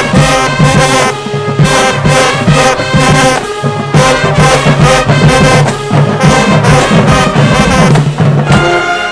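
High school marching band playing full, loud brass and drumline music with a steady beat, cutting off together near the end.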